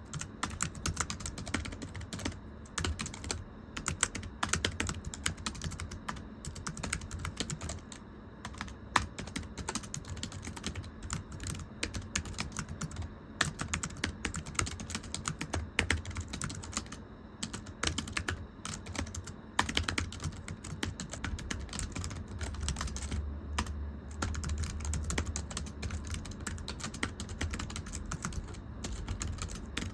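Continuous fast typing on a thin, low-profile keyboard: light, slappy key clicks in quick runs, with short pauses here and there.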